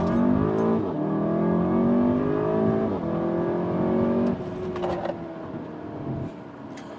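SEAT Leon Cupra's turbocharged 2.0-litre four-cylinder engine accelerating hard, its pitch climbing and dropping back at upshifts about a second in and about three seconds in. After about four seconds it eases off to a quieter, steadier note.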